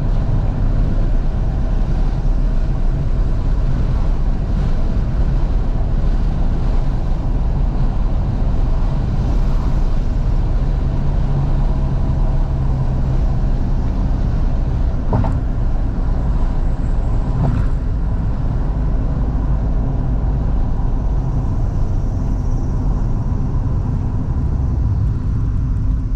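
Steady running noise of a 2012 Fiat 500S heard inside the cabin while driving with all the windows wide open: engine, tyres and air coming in through the windows, with no change in pace.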